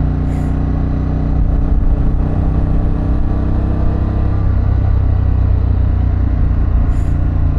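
2024 Harley-Davidson Pan America's Revolution Max V-twin engine running under way, with wind and road noise. The engine note changes a little past halfway.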